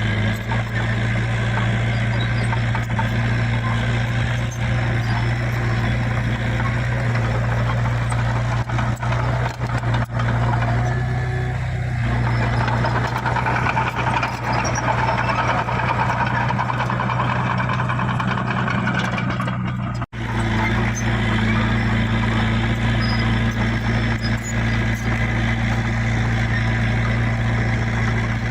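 Heavy diesel earthmoving machinery running steadily with a deep, even engine hum; for several seconds in the middle, a busier mid-range noise rises over it. The sound cuts out for an instant about twenty seconds in, then resumes.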